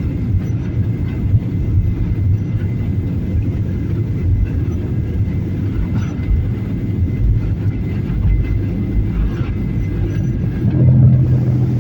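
Airplane taking off: a steady, loud low rumble from the engines and the aircraft rolling, swelling briefly near the end.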